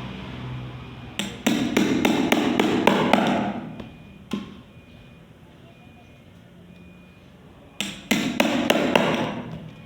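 Rapid hammer blows in two bursts of about four strikes a second, with a single knock in between, typical of hammering during bamboo toy-making.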